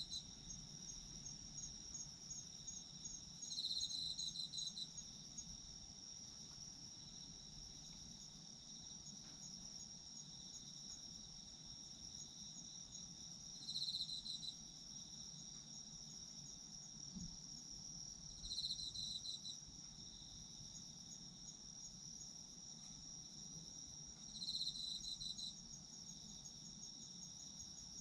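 Autumn insects, crickets among them, singing together: a steady high, rapidly pulsing trill runs throughout, while another insect breaks in with a louder, lower burst of chirps about a second long four times.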